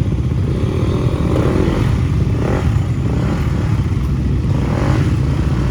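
Motorcycle engine running steadily on the move, with a dense, steady low noise.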